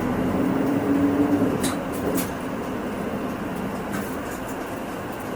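Hino Rainbow II bus's diesel engine heard from inside the cabin as the bus slows for a stop: the engine note falls and fades, two short sharp clicks come about two seconds in, and then a quieter steady hum follows.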